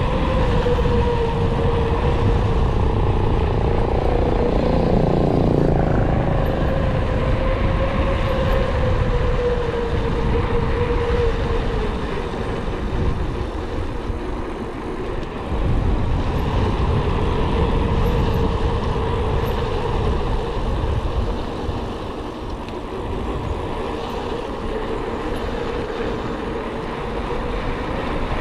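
Wind and rolling noise rushing over the microphone of a moving mountain bike, with a wavering steady whine throughout and crossing pitch sweeps about five seconds in.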